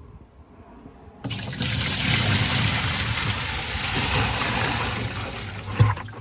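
Water rushing out of a Tesla Cybertruck's storage locker as it drains through the opened drain plug, starting abruptly about a second in and running steadily, with a short knock near the end.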